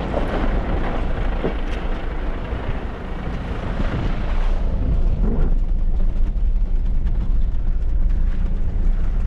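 Off-road truck driving, with a steady low rumble. A hiss of rain and wind over it fades about four and a half seconds in.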